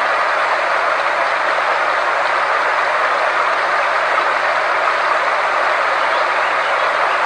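Steady synthetic therapy soundtrack: an even rushing noise, strongest in the middle range, with a faint low hum held underneath and no change throughout.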